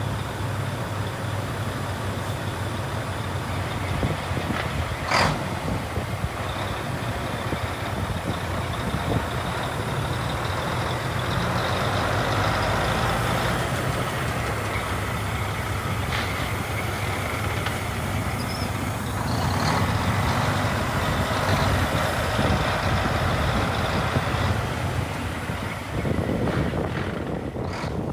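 1984 Mack RS690LST truck's diesel engine running, its sound swelling and easing at times, with a short sharp burst about five seconds in.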